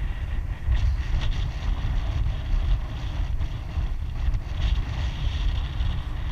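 Wind buffeting the microphone: a steady low rumble that rises and falls in gusts, with a faint hiss above it.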